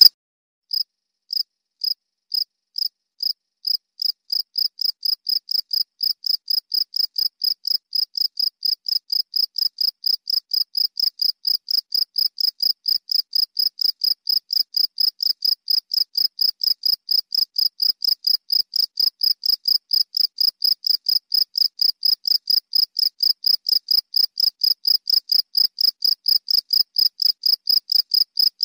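A cricket chirping: short high-pitched chirps in an even rhythm, starting slowly about a second in and quickly settling to about four chirps a second.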